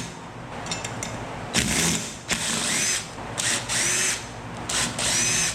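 Power drill run in about four short trigger bursts, each with a whine that rises as the motor spins up.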